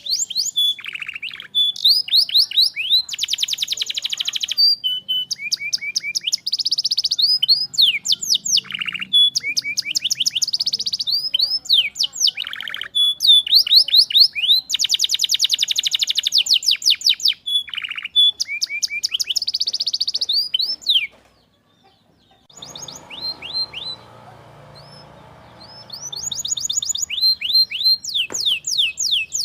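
Domestic canary singing a long, fast song of rapidly repeated sweeping notes and rolling trills. The song breaks off about three-quarters through, gives way to a few seconds of fainter low noise, then starts again near the end.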